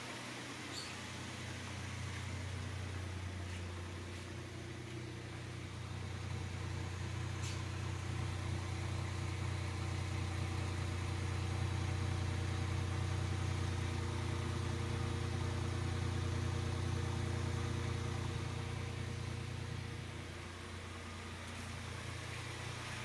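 Datsun GO+'s three-cylinder petrol engine idling steadily with an even low hum. It grows a little louder through the middle and eases back near the end.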